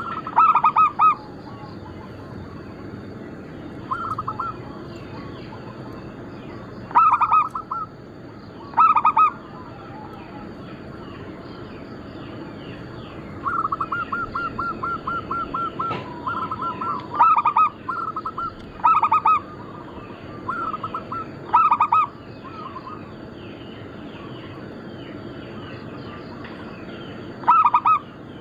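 Zebra dove (perkutut) cooing: short bursts of rapid, staccato coo notes repeated every few seconds, with a longer run of quick notes about halfway through. Faint chirping of other small birds and a steady high tone run underneath.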